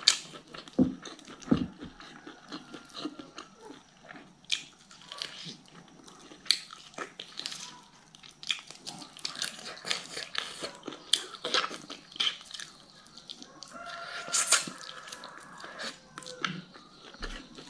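Close-miked eating sounds: chewing and sucking meat off chicken bones, with many wet mouth clicks, smacks and crackles.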